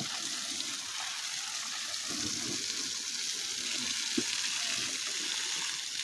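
Water spraying steadily from a garden hose onto plants, a continuous hiss, with one brief knock about four seconds in.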